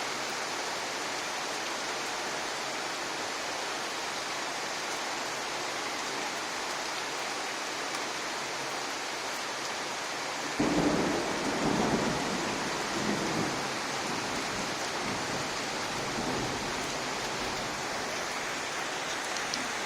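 Heavy rain pouring steadily. About ten seconds in, a sudden rumble of thunder breaks in and fades away over several seconds.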